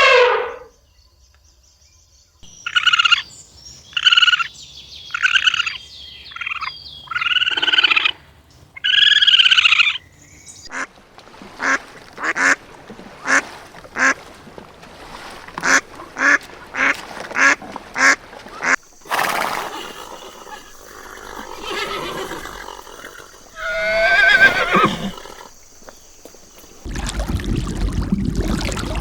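Waterfowl calling: a string of harsh, pitched calls, then a quick run of short calls about two a second. Near the end a steady low rushing noise like running water comes in.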